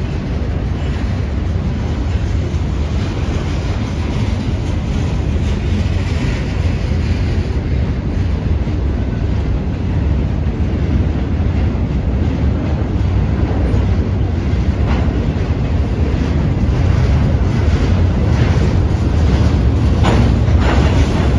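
Manifest freight train cars rolling past at close range: a steady low rumble of steel wheels on rail with clickety-clack over the rail joints. The rumble grows a little louder, with some sharper clacks near the end.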